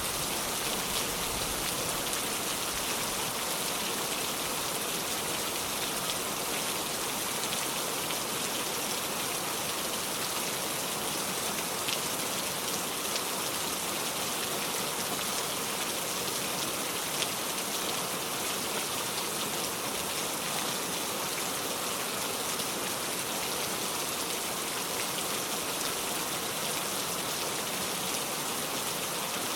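Steady heavy rain falling, an even hiss with the odd sharper drop tick.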